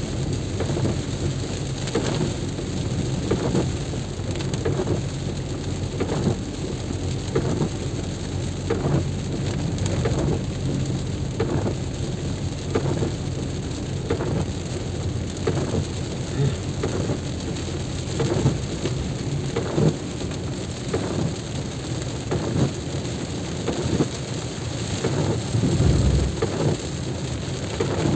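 Heavy rain, with drops hitting close to the microphone as dense, irregular taps over a steady low rumble. The rumble swells briefly near the end.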